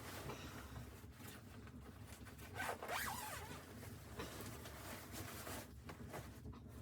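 Continuous rasping, rubbing sounds, loudest about three seconds in.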